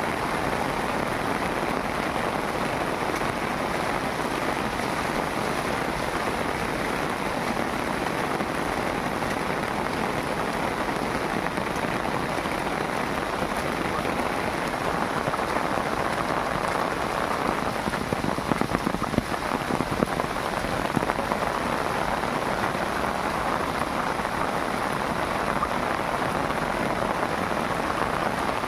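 Heavy rain pouring steadily onto hard surfaces, with a few louder spatters about two-thirds of the way through.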